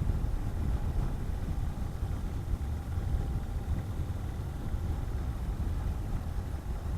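Honda CB400SS motorcycle's single-cylinder engine running steadily while riding, mixed with a low rumble of wind and road noise.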